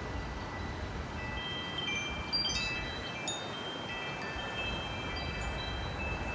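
Wind chimes ringing in gusty wind: scattered ringing tones, busier from about a second and a half in, over a steady rush of wind.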